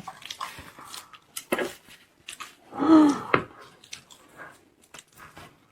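Scattered clicks, knocks and rustles as a durian's husk is pulled apart by hand and its segments lifted out, with a short voiced sound about three seconds in.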